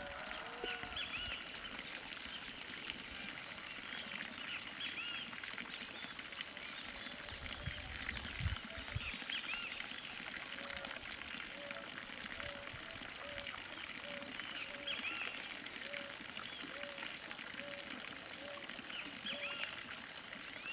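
Background birds calling: one repeats a short low note about every three quarters of a second, while others give brief chirped phrases every few seconds, over a steady high-pitched pulsing hum. A short low rumble, like a gust on the microphone, comes about eight seconds in.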